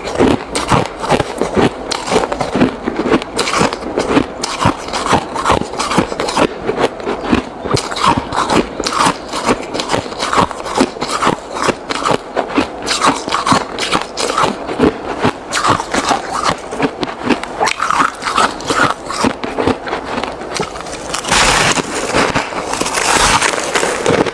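Ice being chewed close to the microphone: a dense run of crisp crunches, several a second. Near the end the crunching turns louder and hissier for about two seconds.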